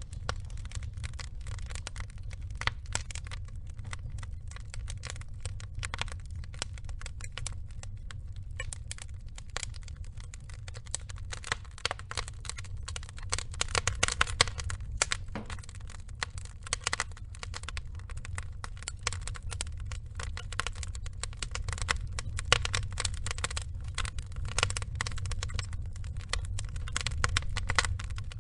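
Log fire burning: wood crackling constantly, with thicker clusters of louder cracks now and then, over a low steady rumble.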